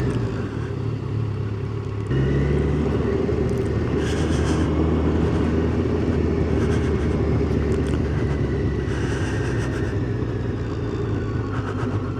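Yamaha FZ1's inline-four engine running steadily under the rider as the motorcycle travels along the road, with wind and road noise. The engine gets abruptly louder about two seconds in.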